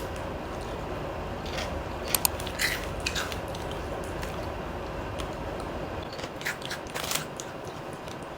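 A person chewing a crisp snack cracker with the mouth close to the microphone, with a handful of sharp crunches and crackles scattered through.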